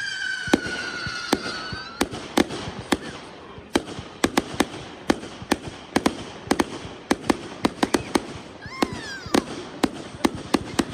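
Consumer fireworks going off: a high whistling tone falls slightly and stops about two seconds in, followed by a steady run of sharp cracking bangs, several a second.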